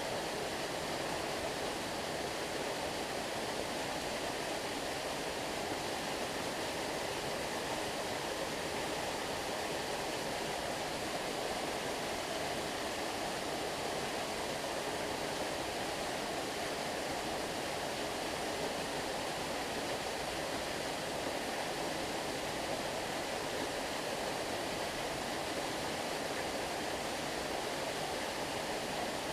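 Stream water flowing steadily, an even, unbroken rush of running water with no distinct splashes or other events.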